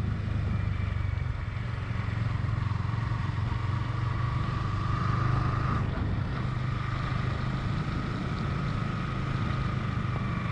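Yamaha R15 V3's single-cylinder engine running under way, a steady drone with a higher whine that climbs slowly, drops out briefly about six seconds in, then picks up again.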